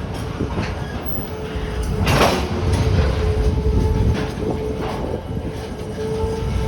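Freight cars rolling slowly on the rails with scattered clanks, and a loud sudden noise about two seconds in. Right after that a steady, high wheel squeal sets in and holds.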